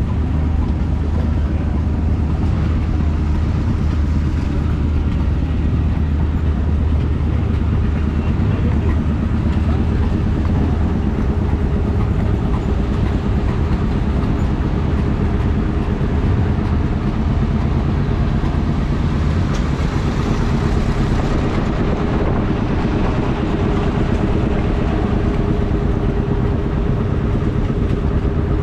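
Vintage stationary engine running steadily with an even, rapid beat. About ten seconds in, the deep low hum fades and a steadier, higher hum takes over.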